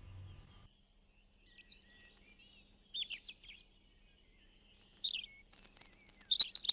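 Small birds chirping and twittering in quick high calls, with a rapid high trill about five and a half seconds in. At the very start the last ringing notes of a music box cut off.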